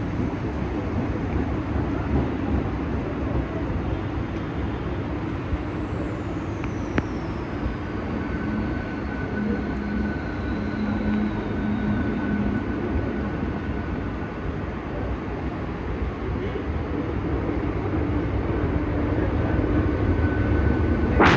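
Mumbai suburban electric local train running, heard from inside a carriage: a steady rumble with a faint high whine that falls in pitch over several seconds, starting about five seconds in.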